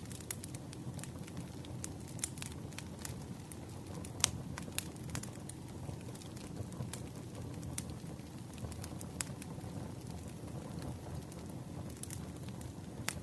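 Wood campfire crackling. Irregular sharp pops and snaps sound over a steady low rumble of flames, with one louder pop about four seconds in.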